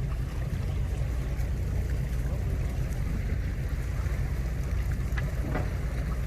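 Wind buffeting the microphone in a steady low rumble, over a faint wash of sea noise on the shore. A short high chirp comes about five seconds in.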